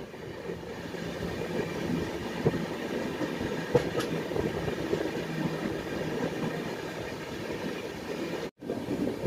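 Gorakhpur–Secunderabad Express running at speed, heard from its open coach door: the steady rumble and rattle of the coaches on the track, with a few sharp clacks. The sound cuts out briefly near the end.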